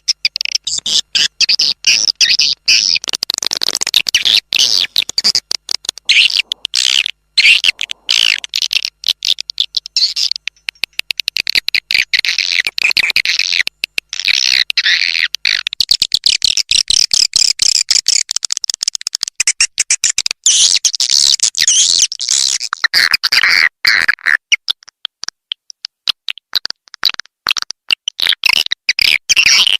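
Swiftlet lure call: a dense, rapid run of edible-nest swiftlet chirps and twitters, a recorded call track of the kind played at swiftlet houses to draw the birds in to roost and nest.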